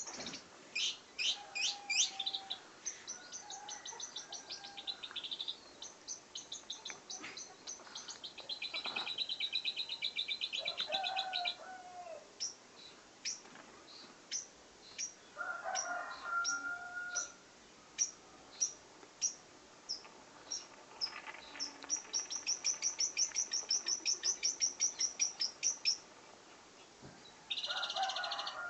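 Long-tailed shrike (cendet) singing a varied song: fast high trills, runs of single sharp chirps about one or two a second, and a few lower whistled notes.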